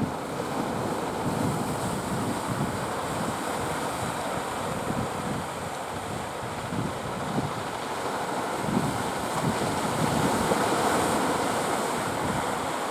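Ocean surf washing steadily, with wind gusting and rumbling on the microphone.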